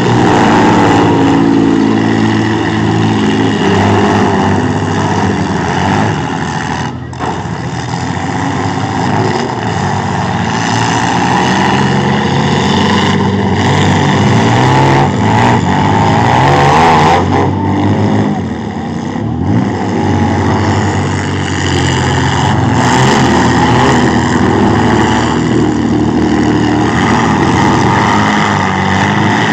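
Several demolition derby trucks and SUVs with engines running and revving together, loud and continuous, their pitches rising and falling as they drive around the arena; a brief dip in loudness about seven seconds in.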